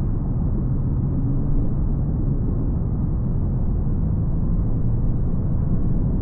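Steady low rumble of a car driving: road and engine noise with a faint hum, and no sudden sounds.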